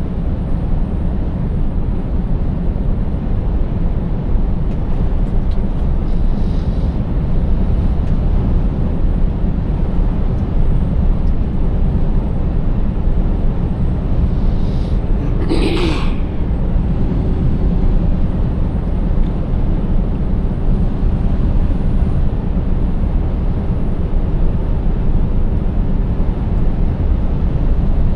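Scania 590S truck's 16-litre V8 under way on the road, a steady low rumble of engine and road noise. A short hiss cuts in briefly about halfway through.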